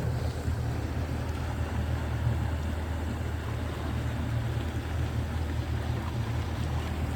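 Boat engine running at a steady speed under the load of a tow, a constant low drone, with wind and water noise over it.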